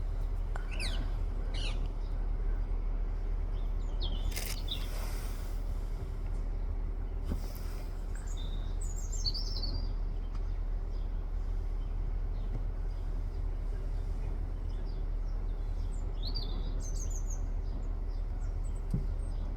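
Parrot calling: several groups of short, high-pitched calls that drop quickly in pitch, about a second in, around four seconds, around nine to ten seconds and again near seventeen seconds, over a steady low rumble.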